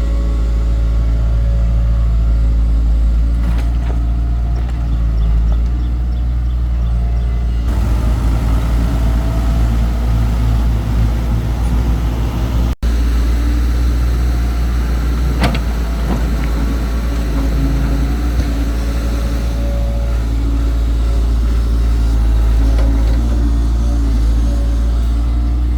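Excavator's diesel engine running steadily under load, a continuous low drone, with a few short knocks in the second half. The sound drops out for an instant about 13 seconds in.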